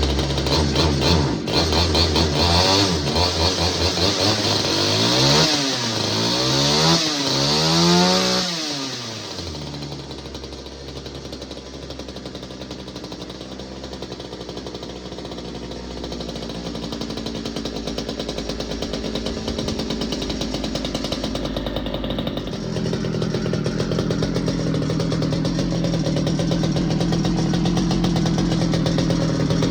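Pioneer P-41 chainsaw's 66cc two-stroke engine running: it is revved up and down several times, then drops back to a quieter idle about nine seconds in. About twenty-two seconds in it picks up to a louder, steadier run.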